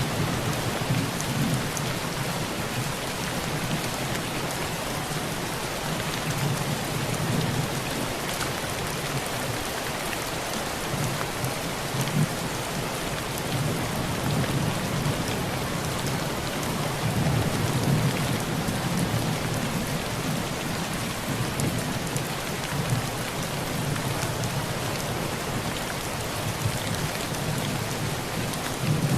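Heavy rain falling steadily on a tin roof, with low thunder rumbling several times.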